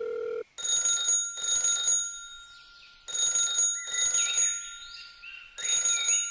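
A steady tone cuts off about half a second in. Then a loud bell rings in double rings, three pairs about two and a half seconds apart, the cadence of a ringing telephone.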